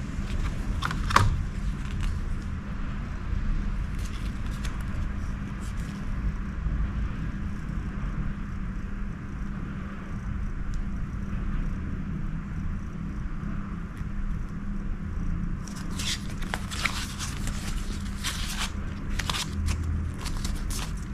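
Steady low rumble with a faint hum, overlaid by light clicks and rustles of handling, one sharper click about a second in and a busier run of rustling near the end.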